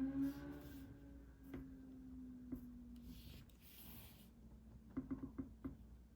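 Pencil drawing on paper: soft scratching strokes, with a quick run of light taps about five seconds in. A steady hum fades away over the first few seconds.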